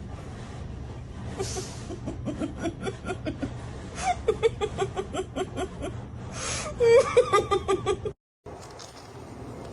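A person laughing in quick bursts, loudest about two-thirds of the way in, cut off abruptly near the end.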